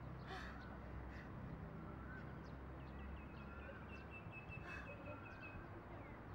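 Birds chirping faintly over steady outdoor background noise, with a quick run of chirps about three seconds in that runs into a thin held whistle.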